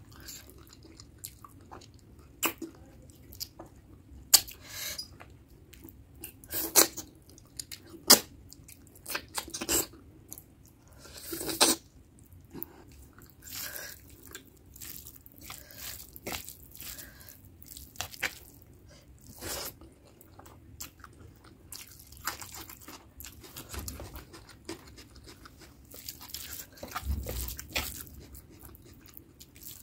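Close-miked chewing and wet mouth sounds of a person eating mutton curry and rice by hand, with irregular sharp smacks and clicks.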